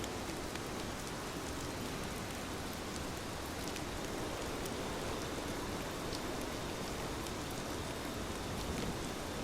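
Heavy rain falling steadily: a dense, even hiss with scattered ticks of individual drops striking a surface.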